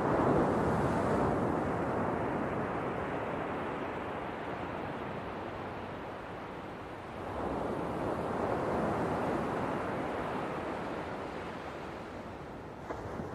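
Ocean waves washing onto a shore: one swell breaks at the start and fades, and a second comes in about seven seconds later and fades slowly.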